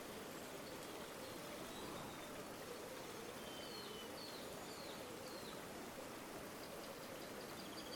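River water flowing steadily with a soft burbling. A few faint bird chirps come in around the middle.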